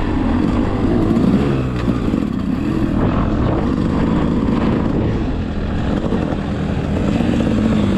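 Enduro motorcycle engine running under load, its pitch rising and falling with the throttle.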